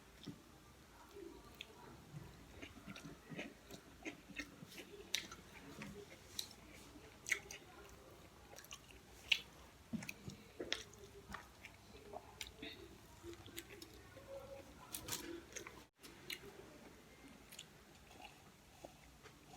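A person chewing food close to the microphone, with many short, sharp mouth clicks at an irregular pace.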